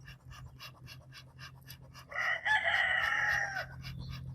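A rooster crowing once, about two seconds in, a single call lasting a little over a second that holds its pitch and then drops at the end.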